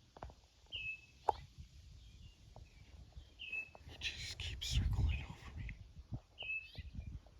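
A bird repeating a short high chirp about every three seconds over quiet outdoor background, with a single sharp click a little over a second in and a brief noisy rustle with low rumble near the middle.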